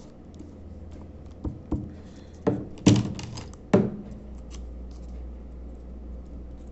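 Handling noise of a paper cutout being glued down into a notebook: a few knocks and thumps on the table, with paper rustling, the loudest about three and almost four seconds in. A low steady hum follows.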